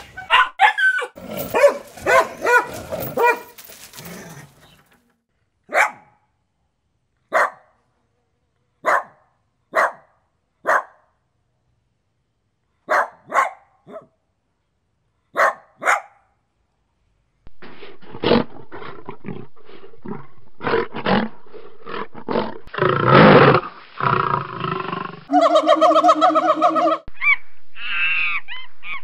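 A dog barking in single short, sharp barks, about ten of them spaced a second or two apart, with silence between. Before the barks come a few seconds of busy bird calls. After them comes a stretch of other animal calls and clatter, with one long, held pitched call near the end.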